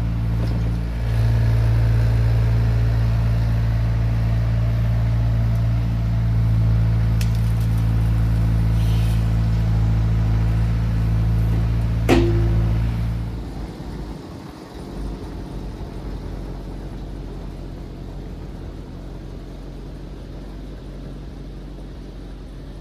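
1972 Chevrolet C50 dump truck engine idling steadily, then shut off about 13 seconds in. A single sharp, brief sound comes just before it stops.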